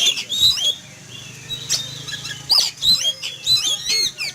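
Oriental magpie-robin (kacer) singing hard in rapid, varied whistles and chirps. The song comes in two bursts with a quieter gap about a second in. The uploader presents the singing as the bird's agitated reaction to a hawk flying overhead.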